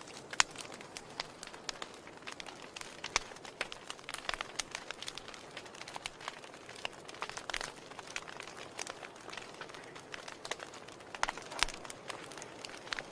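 Wood fire in a fireplace crackling, with irregular sharp pops and snaps over a steady hiss. The loudest pop comes about half a second in, and a cluster of pops comes near the end.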